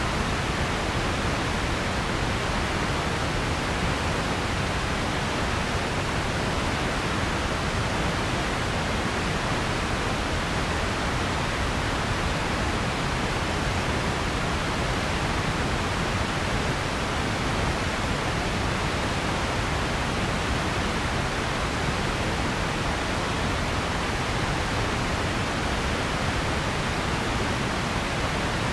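Steady, unchanging noise, a soft even hiss with more weight in the low and middle range than in the highs, like pink noise. Nothing starts, stops or changes.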